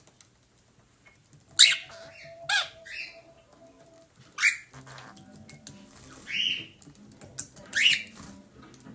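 Blue budgerigar giving a series of about six short, harsh squawking calls, spaced irregularly.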